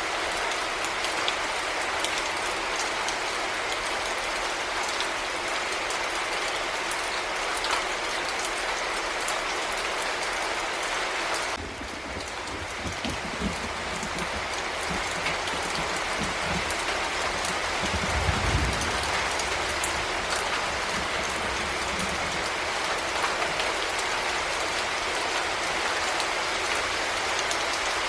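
Heavy rain falling steadily. Just under halfway through the sound shifts abruptly, and a low rumble comes in under the rain, loudest about two-thirds of the way through.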